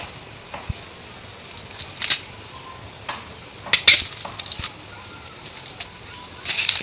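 Irregular crunching and snapping of dry plant matter, a few sharp cracks at a time, loudest about four seconds in.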